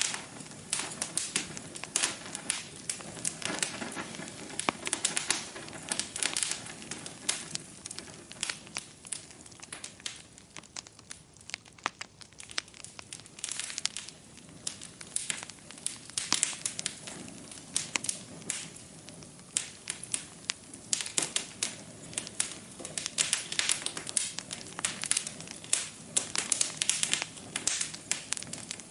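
Wood fire crackling in a fireplace: irregular pops and snaps over a soft hiss, sparser for a few seconds around a third of the way in.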